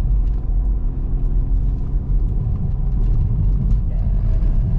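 Car engine and road noise, a steady low rumble, as the car climbs a steep mountain road.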